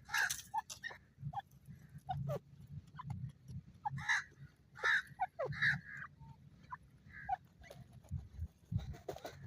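Grey francolin (desi teetar) calling in a run of short, sharp notes and quick sweeps.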